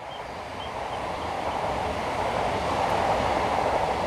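A train passing along the railway line, a steady rushing rumble that swells to its loudest about three seconds in and begins to fade near the end.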